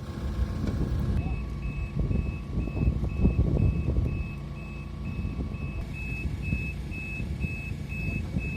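A vehicle's reversing alarm beeps steadily about twice a second, starting about a second in, over a heavy engine's low rumble.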